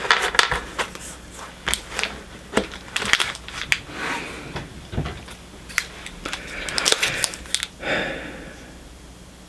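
Pokémon trading cards being handled and flipped through: a string of sharp clicks, light taps and brief rustling scrapes of cardstock and packaging, thinning out near the end.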